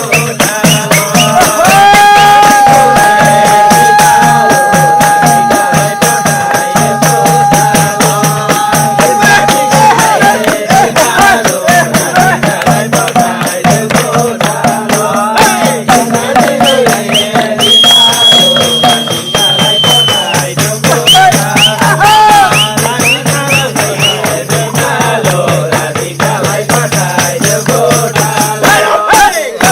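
Nepali folk music: fast, steady jingling percussion, with a long held melodic note lasting about eight seconds early on and a shorter high note a little past the middle.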